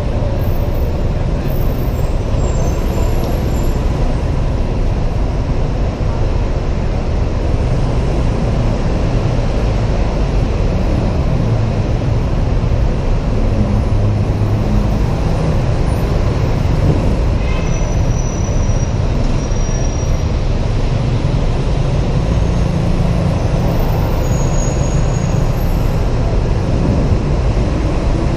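Steady rumble of riding a Honda PCX 125 scooter in city traffic, heard from a helmet-mounted camera, with no sudden events.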